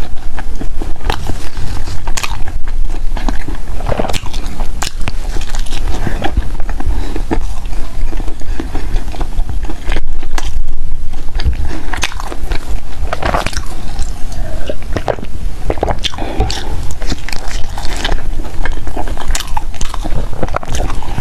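Close-miked eating sounds: a person biting and chewing bread, with many short, irregular crunching clicks throughout.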